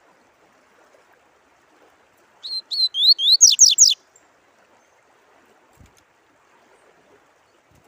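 A songbird sings one short phrase of about a dozen quick whistled notes that climb higher and grow louder, over a faint steady sound of running water.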